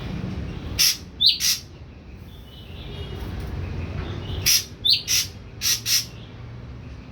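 Ashy drongo calling in two short bursts of sharp, high notes: three about a second in, then about five more a little after the middle, one with a quick falling slide. It is a captive bird just beginning to sing. A steady low hum runs underneath.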